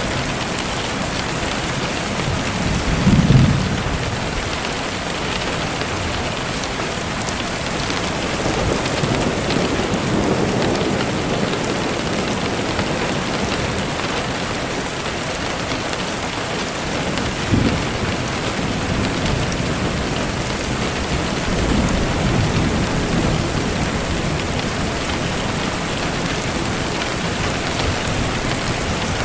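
Steady rain falling, with a few low rumbles of thunder rising out of it; the loudest is about three seconds in, and another short one comes near the end of the second quarter.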